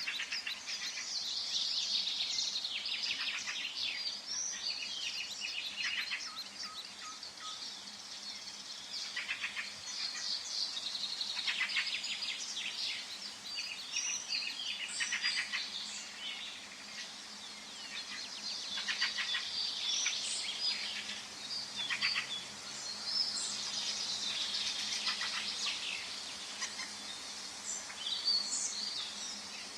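Forest birdsong: several birds singing at once, a steady chorus of overlapping chirps and rapid trills.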